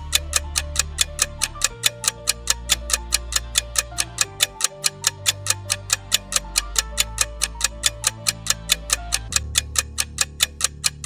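Steady rapid ticking of a workout countdown timer, about four ticks a second, over background music with a bass line.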